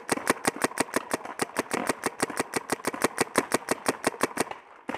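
Paintball marker firing a rapid, steady string of shots, about ten a second, stopping near the end.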